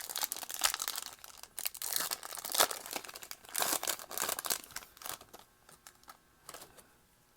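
Foil wrapper of a 2021 Topps Chrome baseball card pack being torn open and crinkled: a quick run of rips and rustles for about five seconds, then a few faint handling sounds.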